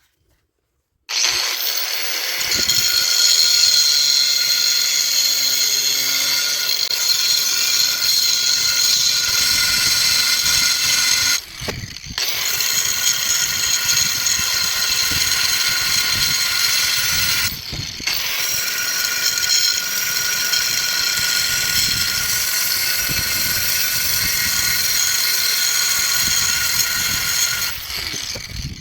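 Electric power tool cutting, running steadily at high speed with a high whine, starting about a second in and stopping briefly twice, about 11 and 17 seconds in.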